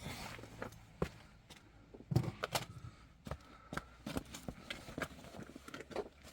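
Scattered light clicks and knocks at irregular intervals, a few every second, with a louder knock about two seconds in.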